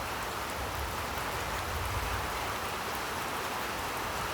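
Steady rain falling, an even hiss of many drops, with a low rumble underneath during the first two seconds.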